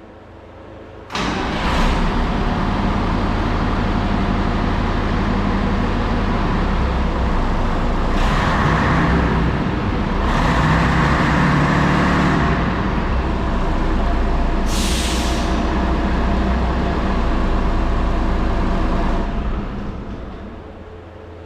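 Large diesel vehicle engine running steadily, with several hisses of compressed air from the air brake system: a short one as it starts, two longer ones in the middle and a brief one near the end. The engine sound fades out near the end.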